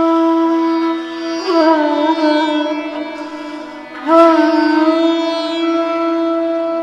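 Background music: a plucked string instrument over a steady drone, with two notes struck and bent in pitch, about one and a half and four seconds in.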